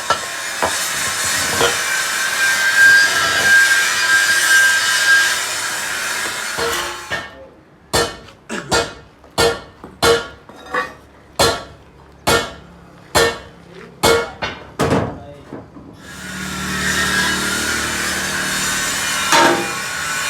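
Workshop metalworking: a steady rough scraping noise, then a run of about fifteen hammer blows, roughly two a second, each with a short ring. The scraping resumes near the end.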